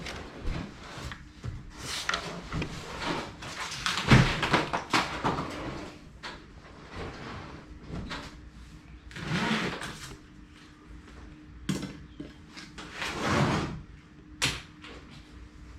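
Irregular knocks, clunks and scrapes of objects and parts being handled and set down, the loudest about four seconds in, over a faint steady hum.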